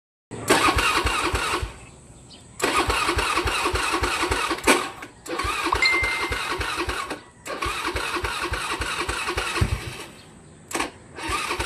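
Small 125 cc motorcycle engine being cranked with the electric starter in repeated bursts of about two seconds each, about six tries. Each time it stops as soon as the button is released and never keeps running, the hard-starting fault this motorcycle has.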